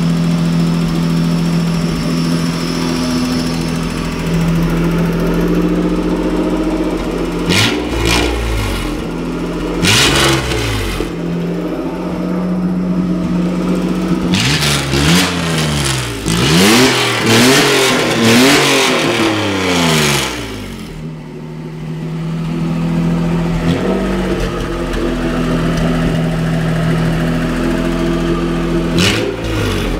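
1985 Nissan Pathfinder's 3.0-litre V6 running with no muffler or catalytic converter. It idles steadily and is blipped a few times in the first third. It is then revved up and down over and over for about six seconds, settles back to idle, and gets one more blip near the end.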